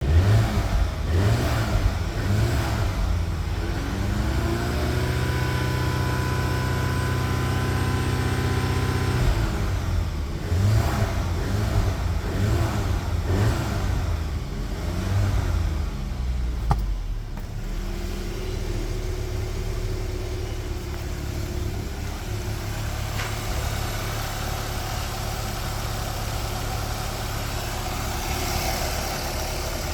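Engine being test-run: blipped a few times, revved up and held at higher revs for about five seconds, dropped back sharply, blipped several more times, then left idling steadily for the last dozen seconds or so.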